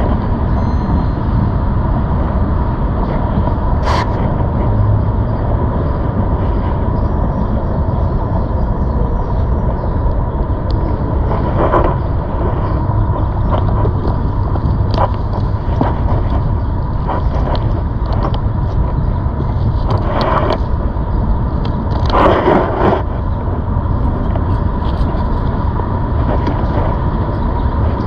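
Steady rumble of wind and rolling noise while riding a ZOOZ electric bike, with a faint steady whine and scattered short clicks and scrapes, the longest two about two-thirds of the way through.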